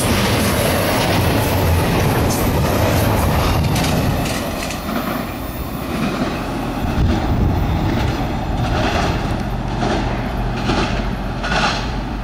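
Double-stack container well cars of a freight train rolling past at speed, their wheels rumbling on the rails. About four seconds in, the noise drops as the last car goes by and the train moves away. A few brief higher-pitched bursts come near the end.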